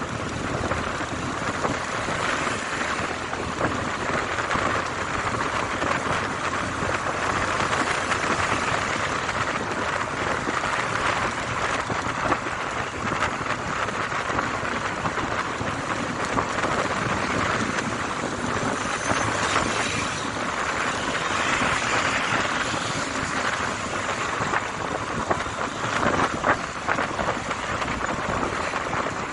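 Steady noise of a motorcycle on the move: wind rushing over the microphone together with road and engine noise, at an even level with a fine crackle throughout.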